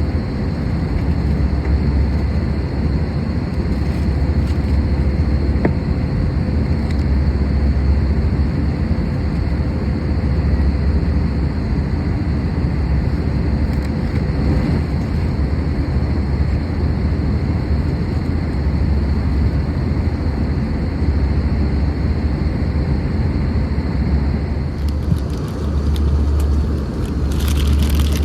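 Steady cabin drone of an Airbus A320-214 in cruise: its CFM56 engines and the airflow over the fuselage make a constant low rumble, with a few faint steady tones above it. A light crackling rustle joins in near the end.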